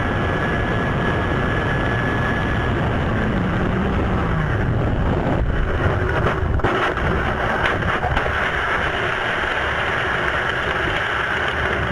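Race car engines running with steady, dense track noise from a racing broadcast.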